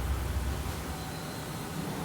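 Steady hiss from an automatic car wash heard from inside the car, with a low rumble that drops away less than a second in.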